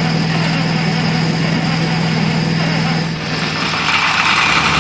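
International 856 tractor's diesel engine cranking on the starter, then catching and starting to run about three seconds in, after a cold-weather start that took a block heater and ether.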